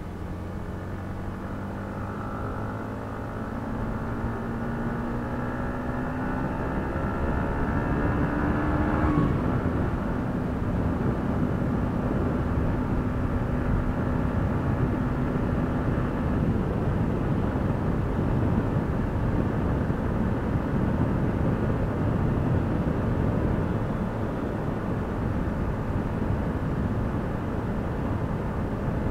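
Yamaha MT-15's single-cylinder engine accelerating on the highway, its note climbing steadily for about nine seconds, then dropping and settling into a steady cruise. Heavy wind rushes over the microphone throughout.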